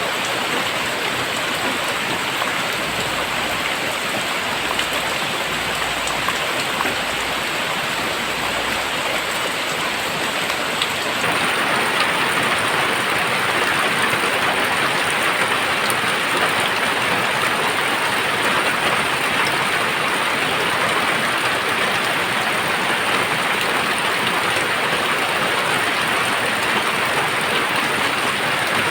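Very heavy rain pouring down steadily, a dense hiss of drops on surfaces that grows a little louder about eleven seconds in.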